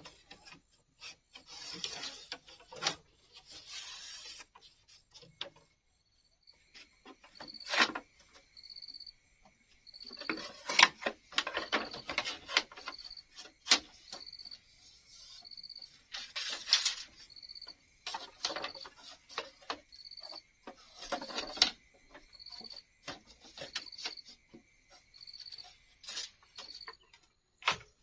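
Irregular scraping strokes and sharp knocks from hand work on bamboo. Behind them, a steady high insect trill with regular short chirps comes in about six seconds in.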